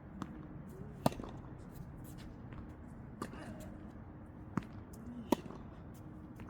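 Tennis balls struck by rackets and bouncing on the court in a rally: four sharp hits at uneven intervals, the loudest about a second in and another late on.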